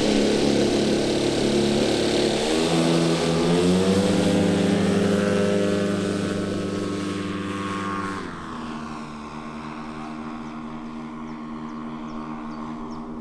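Engines of a quarter-scale RC Beech-18 model airplane running with propellers. The pitch steps up twice in the first few seconds, then drops sharply about eight seconds in as the sound gets quieter, and it runs on steadily at the lower pitch.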